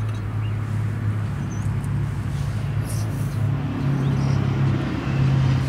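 Steady low mechanical hum from a running machine, its pitch stepping up slightly about four seconds in.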